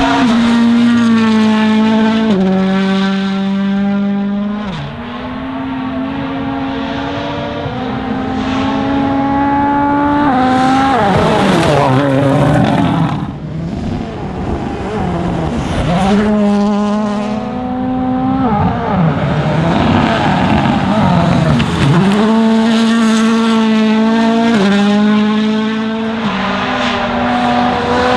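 Toyota Yaris WRC rally car's turbocharged 1.6-litre four-cylinder engine at full throttle, rising in pitch and dropping with each quick upshift. About ten seconds in, the engine note falls away and warbles unevenly for several seconds. It then climbs through the gears again with more sharp upshifts.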